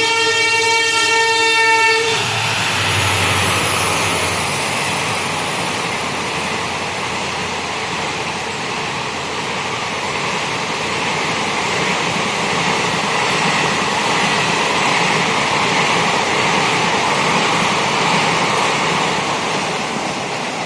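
Indian Railways express train's locomotive horn held in one long steady blast that stops about two seconds in. It is followed by the loud rush and rattle of the train's coaches passing at high speed, easing slightly near the end.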